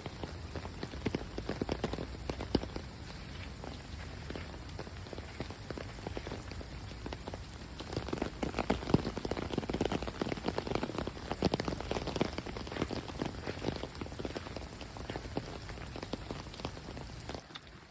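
Heavy rain pattering on surfaces, with many sharp individual drop hits close by; it grows heavier for a few seconds in the middle.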